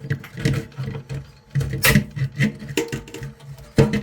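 Small pliers working 3D-printed plastic parts free of their support layer: several separate sharp clicks and snaps, spaced irregularly.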